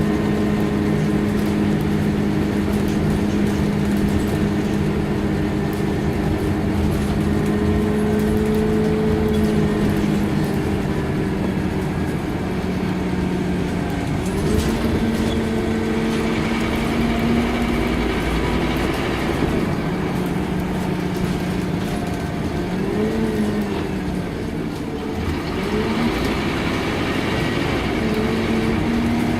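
Scania K230UB OmniLink bus's diesel engine running on the road. Its note holds steady for the first half, then climbs and falls several times in the second half.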